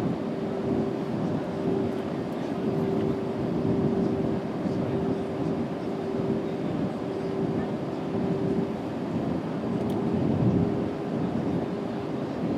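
Steady roar of an Airbus A320neo's jet engines and rushing air heard from inside the passenger cabin in flight, with a steady hum running through it.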